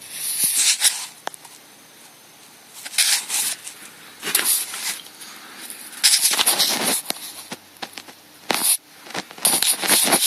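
Subframe rubber bushings of a Renault Scenic II / Mégane II creaking in about six irregular bursts; the creak is the sign of worn subframe bushings.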